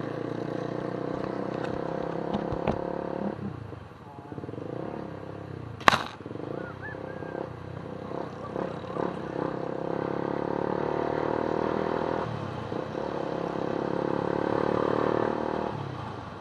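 An engine running, its pitch climbing slowly, easing off about three and a half seconds in and again around twelve seconds, then climbing once more. A single sharp click about six seconds in.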